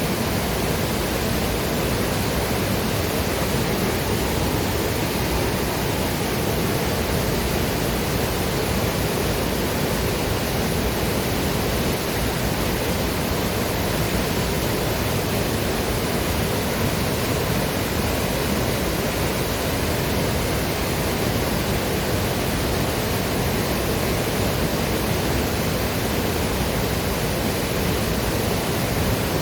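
Waterfall and river water rushing, a steady, even roar with no breaks.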